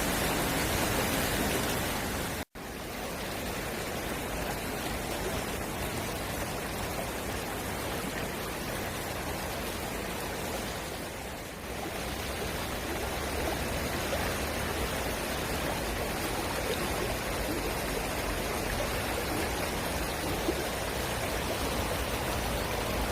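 Mountain valley stream rushing steadily over rocks, its flow raised by rain. The sound cuts out for an instant about two and a half seconds in.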